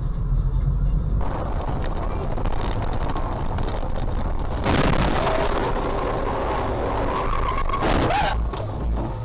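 Car tyres screeching in a skid over road and traffic noise: a wavering squeal that starts about five seconds in and cuts off suddenly near the end.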